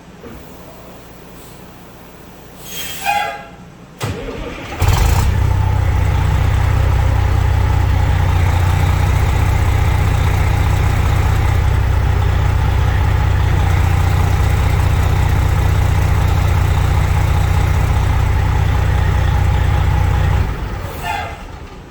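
The Blue Bird Wanderlodge bus engine starts about five seconds in, then runs steadily with a loud low rumble. The sound drops away shortly before the end.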